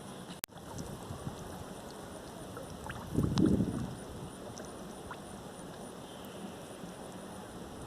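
Outdoor river ambience: a steady hiss of wind and flowing water, with a short louder burst of noise about three seconds in and a sharp click just after the start.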